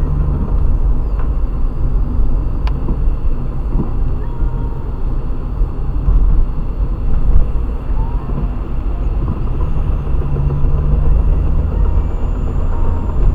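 VAZ-2110-family car on the move: a steady low running and road rumble with scattered knocks, including one sharp click nearly three seconds in. The knocking came on suddenly during a turn and is the fault being shown.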